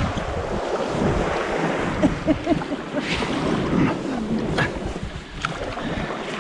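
Sea water splashing and lapping around a kayak, with wind buffeting the microphone and a few short sharp clicks.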